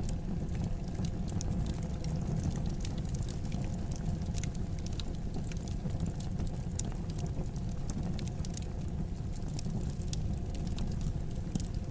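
Fire in a fireplace crackling: many small, sharp pops scattered irregularly over a steady low rumble.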